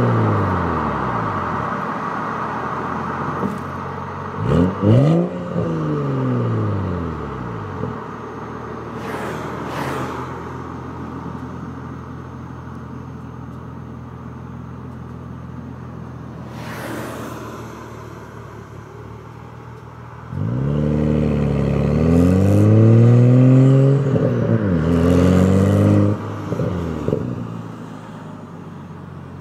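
BMW 335xi's turbocharged N55 inline-six through an Active Autowerke quad exhaust with a BMS downpipe, idling and revved in blips: a quick double rev about four seconds in, then a run of several revs about twenty seconds in.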